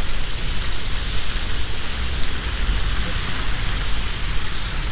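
Steady hiss of wet snow falling on an umbrella and the slushy street during a snowstorm, over a low rumble of wind on the microphone.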